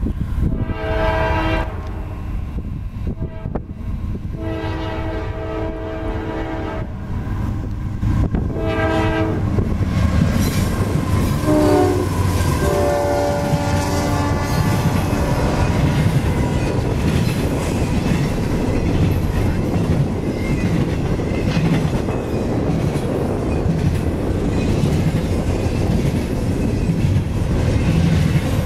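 CSX freight locomotive sounding its air horn in four blasts (long, long, short, long), the standard grade-crossing warning, as it approaches and passes. From about ten seconds in, the steady rumble and clatter of double-stack intermodal well cars rolling by close at speed takes over.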